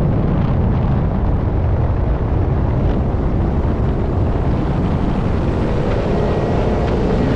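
Ford Mustang GT's 5.0-litre V8 running hard during a roll race, a loud, dense rumble mixed with wind and road noise, with a rising engine tone coming through near the end.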